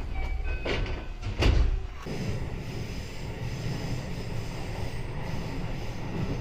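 JR West 221 series electric train running, heard from inside the passenger car. A few sharp knocks and brief thin squeals come in the first two seconds, the loudest knock about a second and a half in, followed by a steady low rumble of the wheels on the track.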